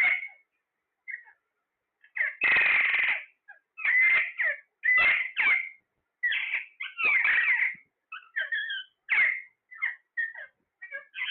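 Pet parrot calling: a string of short, loud calls, roughly one or two a second. After a call right at the start and a short gap, they run on without a break from about two seconds in.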